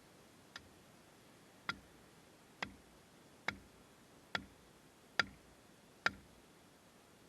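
A series of sharp knocks, one faint and then six at an even pace a little under a second apart, each a bit louder than the last.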